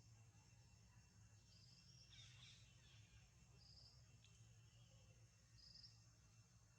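Near silence: faint outdoor ambience with a short, high chirp repeating about every two seconds over a low steady hum.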